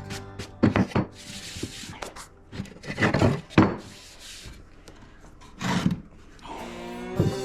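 Hand sanding or rubbing on wood: a handful of separate scraping strokes with a few light knocks. Background music fades in near the end.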